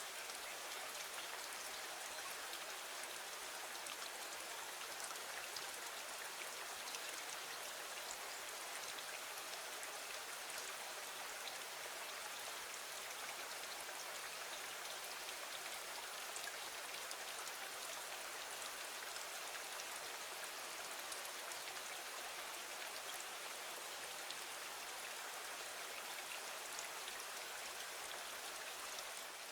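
Steady rain falling, an even hiss with fine scattered drop patter and no change in intensity.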